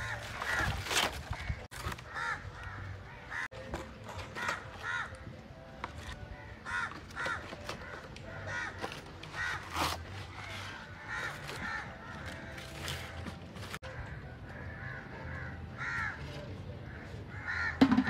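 Birds giving short, repeated calls, one after another, with occasional sharp rustles and cracks from dry palm fronds being handled.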